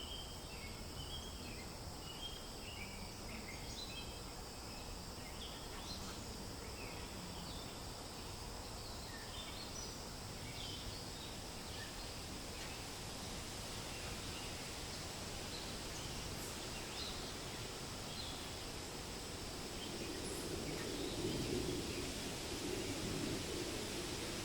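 Forest ambience: steady wind rustling through leaves, with scattered small bird chirps that are busiest in the first half and thin out later. A gust swells the rustling about twenty seconds in.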